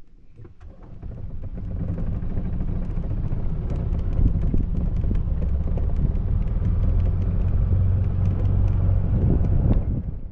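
A motor vehicle running: a steady low rumble that builds over the first couple of seconds, with small rattles and clicks over it, and cuts off near the end.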